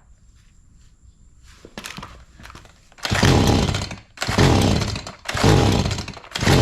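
Stihl MS 180 C two-stroke chainsaw engine catching about three seconds in and running in loud surges: four bursts, each falling in pitch, with short drops between them.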